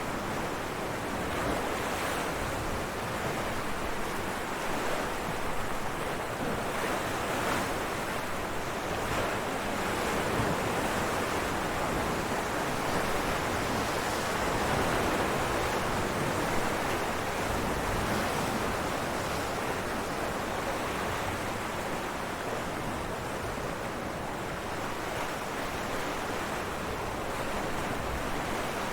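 Ocean waves breaking on rocks: a continuous rushing surf that swells and eases slowly, loudest about halfway through.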